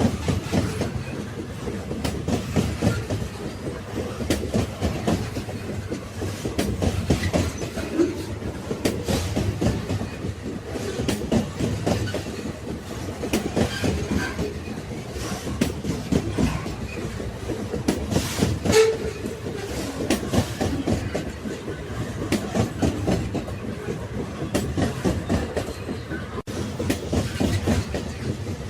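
Railway carriages rolling along the track: a continuous rumble with the rapid clatter of wheels on the rails. There is one brief louder clatter about two-thirds through.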